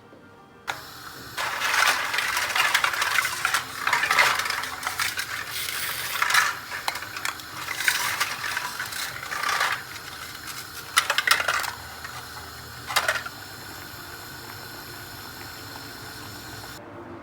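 Kitchen items being handled: a run of light metallic clinks, knocks and clatter, like cutlery and dishes, thinning to a few separate louder clinks and then stopping.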